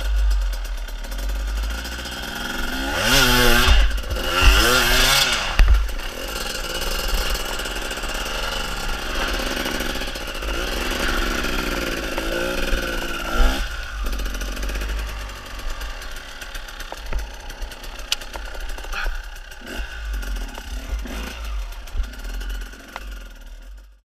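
Enduro dirt bike engine revving hard on and off, with the revs surging and dropping about three seconds in and again around thirteen seconds. Scattered knocks and clatter from the bike over rough ground come later on, and the sound fades out at the end.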